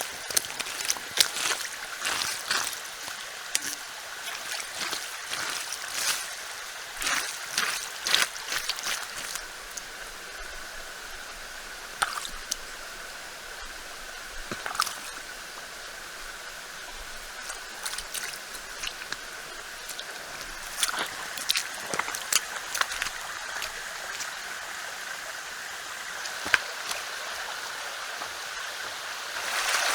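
Stream flowing with a steady rushing trickle, with many short sharp clicks and taps scattered through it.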